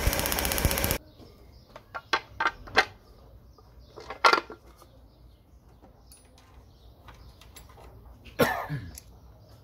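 Mercedes-Benz W210 engine running with a rapid, even ticking, cut off suddenly about a second in. After it come a few scattered light clicks and taps, and one short louder sound near the end.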